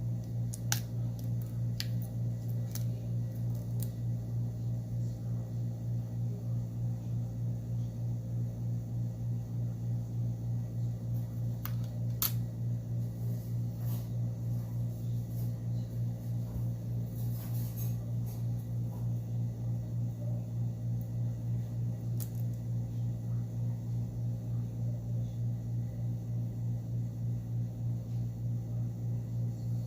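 Scattered light clicks and ticks of small repair tools on a Samsung Galaxy Note 8's internal parts as its mainboard is taken out, over a steady low hum that pulses evenly.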